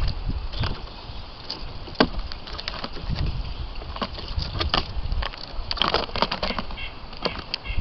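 Birds at a feeder: irregular sharp taps and clicks of pecking and landing on wood, some in quick clusters, with wing flutters.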